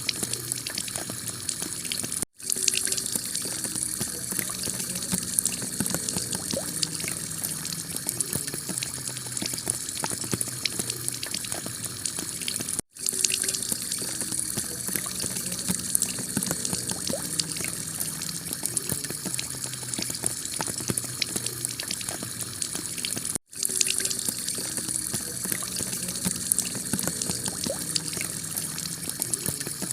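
Heavy rain pouring onto a tiled house roof: a steady dense hiss of water with many small drop impacts. The sound cuts out for an instant three times, about every ten seconds, where the recording loops.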